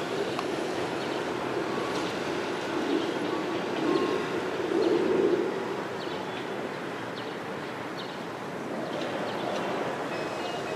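Steady hum of an electric train and street traffic at a level crossing, swelling about four to five seconds in, with a few short bird chirps.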